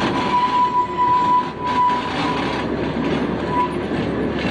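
Small amusement-ride train rolling along its narrow track, its wheels rumbling and clacking on the rails. A thin, high wheel squeal sounds on and off through the first half and briefly again near the end.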